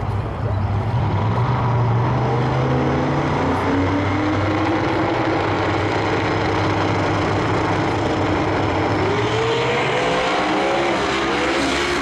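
Drag racing cars at full throttle down the strip, the engine notes climbing in pitch in repeated rising sweeps over a steady loud drone.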